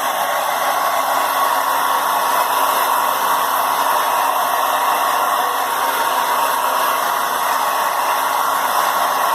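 Hair dryer running steadily, a loud, even rush of air with a thin steady whine through it.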